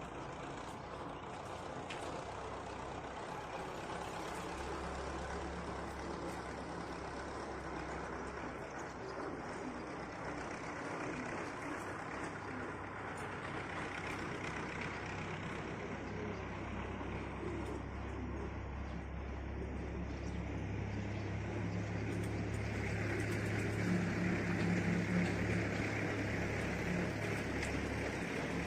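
A motor vehicle's engine rumbling nearby, with a steady low drone that slowly grows louder and peaks near the end.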